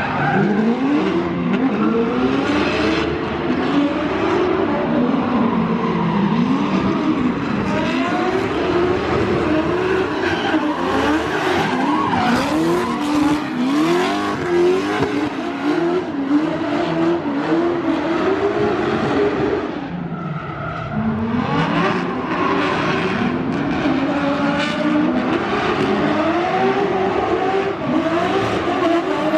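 Drift cars in a tandem battle run: engines revving hard and falling back over and over, with tyres squealing and skidding throughout. The sound drops briefly about two-thirds of the way through.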